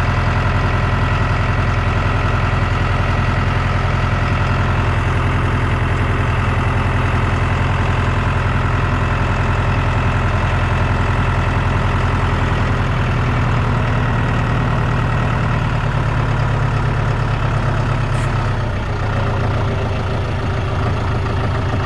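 Large farm tractor's diesel engine running steadily at low speed while maneuvering a planter. About three-quarters of the way through, the deepest part of the engine note drops away and the sound shifts slightly.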